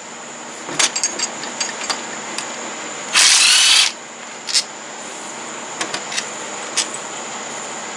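A handheld power driver runs in one short burst about three seconds in, its pitch rising as it spins up, while the fasteners come out of a riding mower's transaxle. Sharp metal clicks and clinks of tools and parts come before and after it.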